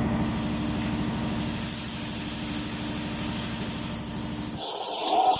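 Refrigeration compressor of a ship's centralized air-conditioning plant running: a steady machine hum with a fast low pulsing and a hiss. It cuts off abruptly about four and a half seconds in.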